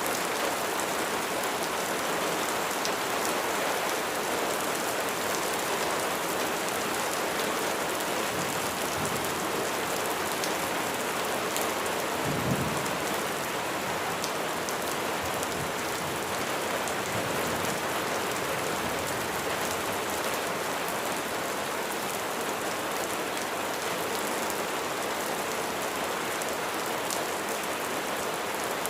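Steady rain falling, an even hiss of many drops. A brief low rumble comes about twelve seconds in.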